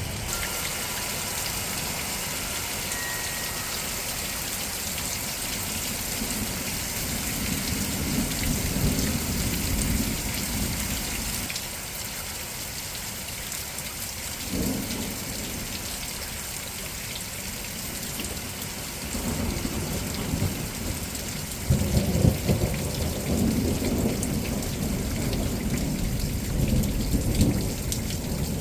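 Steady rain hissing down during a thunderstorm, with thunder rumbling in it: a long low roll about a quarter of the way in, a short one near the middle, and a louder peal that breaks suddenly about three-quarters through and rolls on to the end.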